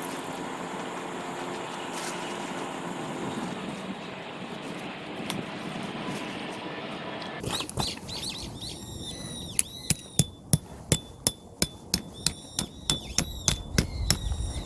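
A steady engine-like hum, as of a vehicle driving, gives way about halfway through to small birds chirping. Over the birdsong comes a run of quick, even knocks, about three a second.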